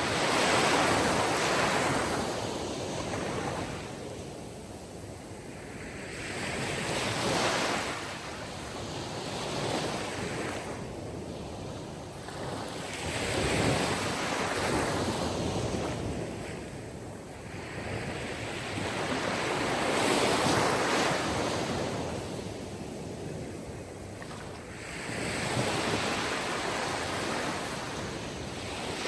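Sea waves washing onto a shore, the surf swelling and falling back in slow surges every six seconds or so.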